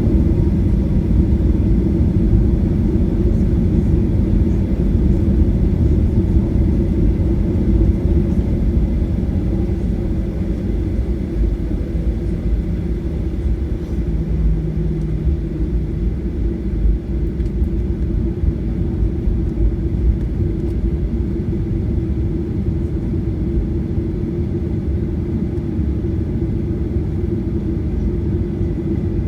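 Boeing 737-800 airliner with its CFM56-7B jet engines running: a steady low rumble with a faint thin high whine above it.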